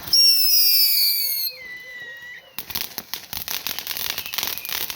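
A whistling firework gives a loud whistle that falls slightly in pitch for about a second and a half, then fades. About halfway through, a dense run of fast crackling pops starts up and keeps going.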